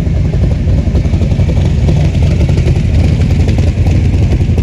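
Loud, steady low rumble of a muscle car or hot rod engine running at low speed close by.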